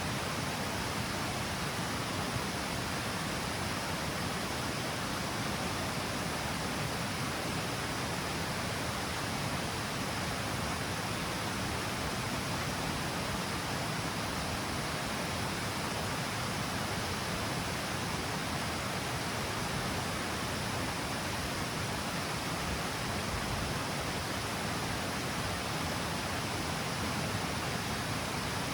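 River water pouring over a stepped cascade, a steady, unbroken rushing noise.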